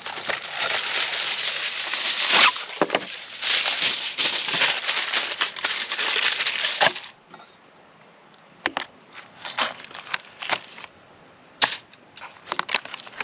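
Plastic food packaging crinkling and tearing as a pack of chicken thighs is opened, dense for about seven seconds and then stopping suddenly. Scattered small crackles and clicks of handling follow.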